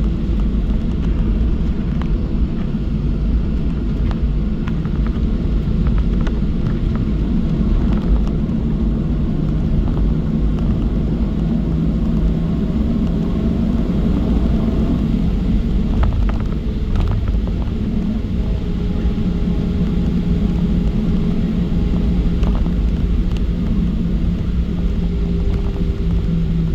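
Cabin noise inside a Boeing 737-700 taxiing: a steady low rumble from the airframe rolling and its CFM56-7B jet engines at idle, with a steady hum that grows stronger about halfway through and a couple of faint knocks.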